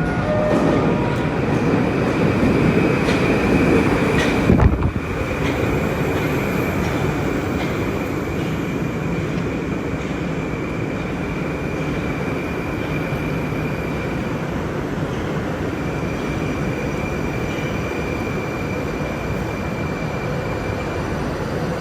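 Moscow Metro train running on the Nekrasovskaya line: a steady rumble of wheels and motors with a thin high whine. A single sharp knock comes about five seconds in, after which the running settles a little quieter.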